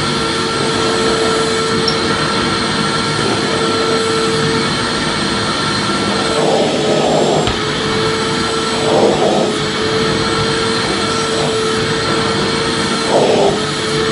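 Vacuum cleaner running steadily: a continuous rushing of air with a steady motor whine, with a few brief swells in the rushing noise in the second half.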